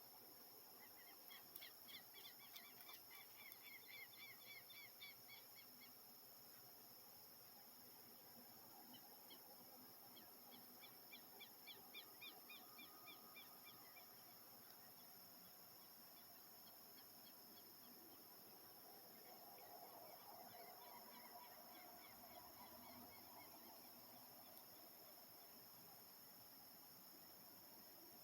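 A bird calling in three rapid series of repeated high notes, over a steady high insect hum in the evening countryside.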